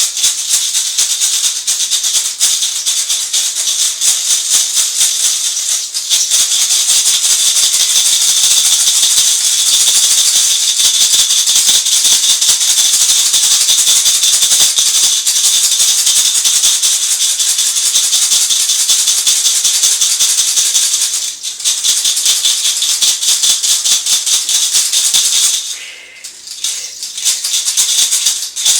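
A rattle shaken continuously in fast, steady strokes, dropping out briefly about 21 seconds in and again for a moment near the end.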